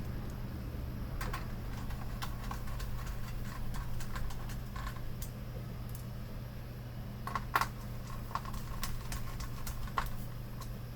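Scattered light clicks and taps of small screws and plastic monitor parts being handled and screwed together, a little louder about seven and a half seconds in, over a steady low hum.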